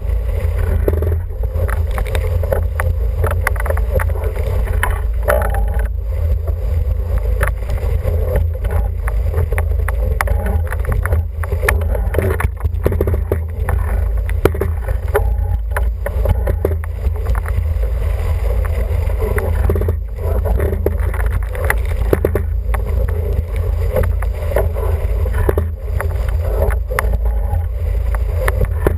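International 14 sailing dinghy under way: a steady rush of wind buffeting the microphone and water along the hull, with scattered small knocks and clicks.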